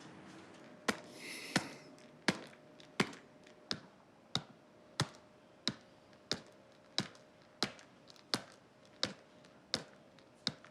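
Sharp, evenly spaced taps or clicks, about three every two seconds, starting about a second in, over a quiet background.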